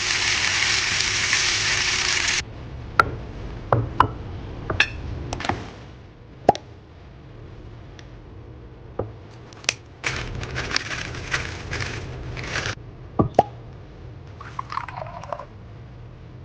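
Kitchen cooking sounds: a hard-edged clip of frying sizzle to start, then scattered sharp knocks and clicks of utensils, and a second stretch of sizzle later on.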